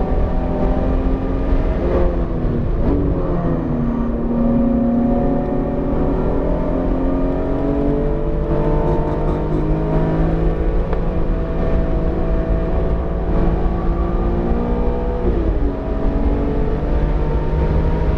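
BMW E46 M3's S54 inline-six running hard on track, its pitch dipping about two seconds in, then climbing steadily for some ten seconds before a sharp drop at a gear change near the end, after which it climbs again. The freshly built engine is still being broken in, held below 7,000 rpm.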